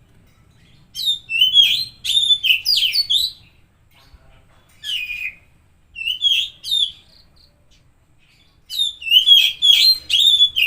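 Oriental magpie-robin (kacer) singing: bursts of varied whistled and chattering phrases with short pauses between, the busiest burst near the end.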